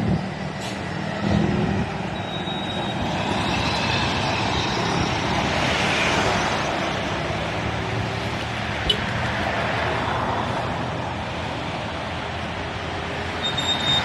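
Road traffic: a passing vehicle's engine and tyre noise swells to a peak about six seconds in and then fades, with a low engine hum under it. A single sharp click sounds about nine seconds in.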